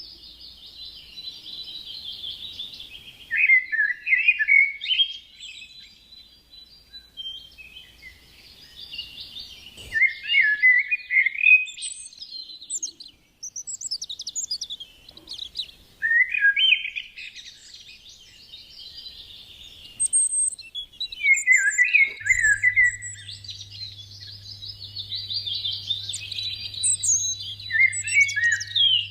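Several garden birds singing and twittering, with a louder falling song phrase coming back about every six seconds over continuous chirping.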